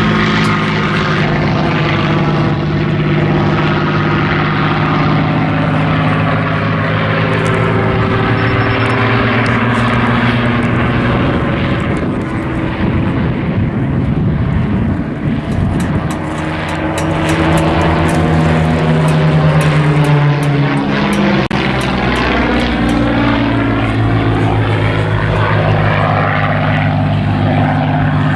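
Two Spitfires' Rolls-Royce Merlin V12 piston engines running in a flypast. Their tones sit at slightly different pitches and slowly rise and fall in pitch as the aircraft pass and turn. About halfway through the sound briefly dips and roughens, then comes back strongly.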